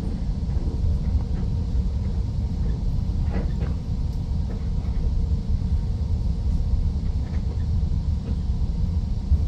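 Steady low rumble of a moving regional train, heard from inside the carriage, with a few faint ticks.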